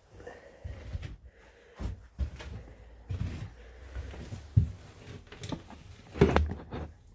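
Hand-work on the engine: irregular knocks and clunks of tools and metal parts being handled, with rustling between them; the loudest clunks come about four and a half and six seconds in.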